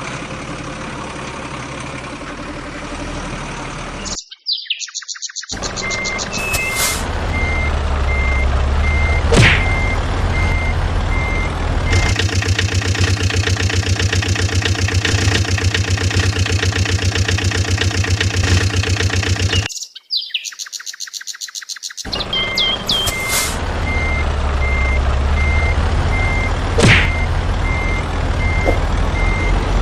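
A battery-operated toy vehicle's electronic reversing beeps, evenly spaced, over a low motor hum and a fast rattling rhythm. The sound cuts out twice, briefly, and then picks up again.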